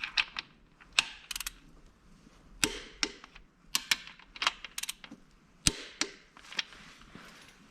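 Irregular sharp clicks and clinks of hand tools against metal parts, some in quick clusters, during mechanical repair work.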